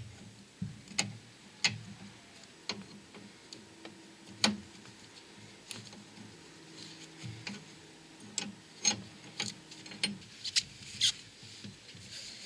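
Irregular light metallic clicks and taps of hand tools on metal fittings, as the power-steering pipe union is worked onto the steering rack, with a faint steady hum through the middle.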